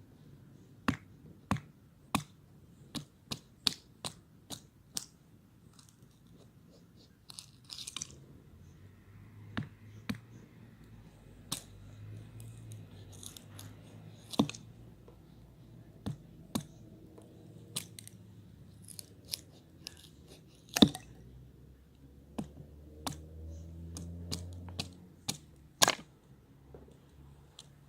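Campfire crackling, with sharp irregular pops and snaps from the burning wood, two of them louder near the end.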